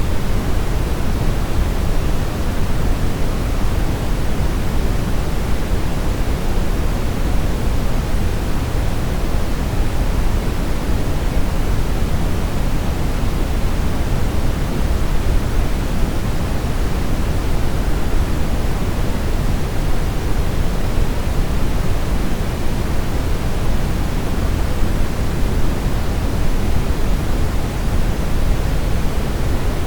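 Steady brown noise: an even, unchanging deep rush with most of its weight in the low end and little hiss on top.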